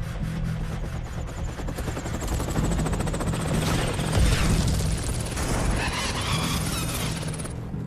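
Helicopter starting up: a thin turbine whine rising slowly in pitch over a rapid rotor chop, cutting off abruptly near the end.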